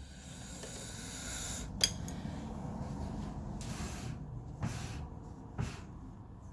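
Hands handling parts of a projector being taken apart: a rustling hiss, a sharp click about two seconds in, then a few short scrapes.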